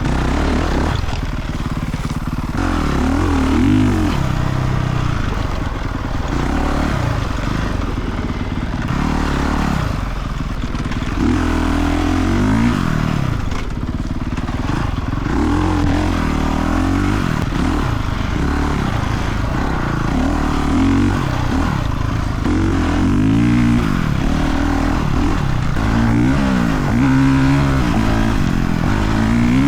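Honda CRF dirt bike engine revving up and falling back again and again as it is ridden off-road, the pitch rising and dropping every second or two.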